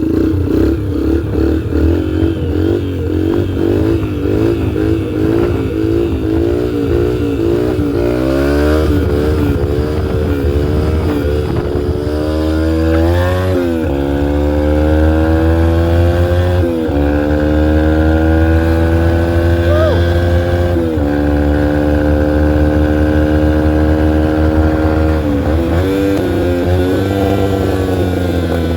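2003 Yamaha TTR125L's single-cylinder four-stroke engine burbling unevenly at low revs, then revving up as the bike pulls away. Its pitch climbs and drops back at about three upshifts before settling into a steady cruise, with a brief throttle dip and pickup near the end.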